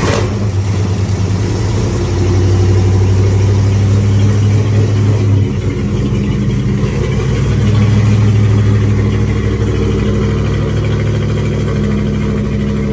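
Cammed Ford 390 FE V8 in a 1965 F100 idling steadily just after a cold start, on slight choke after sitting four and a half months, through a Black Widow Venom exhaust.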